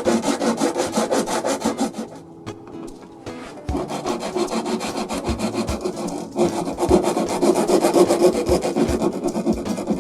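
A saw cutting through wood with a fast, rasping rhythm. The sawing drops off about two seconds in and picks up again a couple of seconds later.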